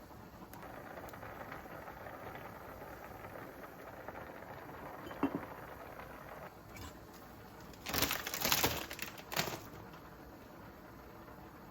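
Kitchen handling sounds: a single short clink about five seconds in, then a loud spell of rustling lasting about a second and a half near eight seconds in.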